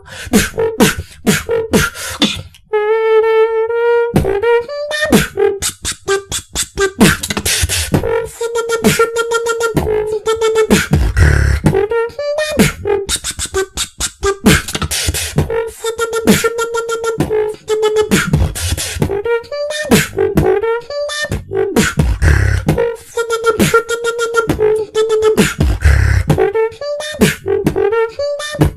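Beatboxing with several voices at once: rapid mouth-made drum clicks and snares, deep bass kicks, and a held pitched tone carried over the beat, which keeps breaking off and returning.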